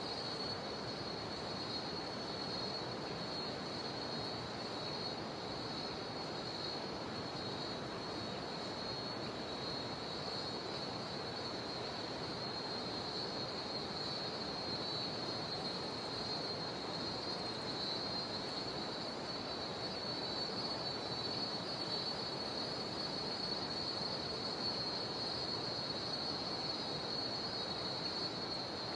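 Cicadas droning in one steady high-pitched note over the constant rush of a jungle river.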